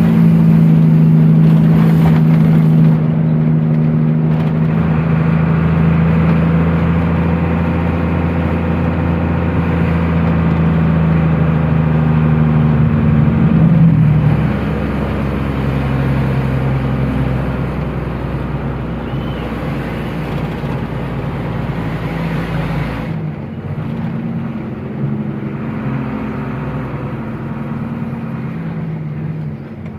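Truck engine running on the road, a steady drone whose pitch drops about halfway through and stays lower.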